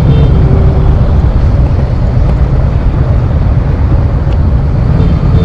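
Cruiser motorcycle engine running at low speed, a steady deep rumble.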